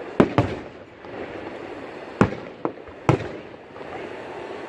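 Fireworks display shells bursting: five sharp bangs, two in quick succession at the start and three more about two to three seconds in, each trailing off in a short echo.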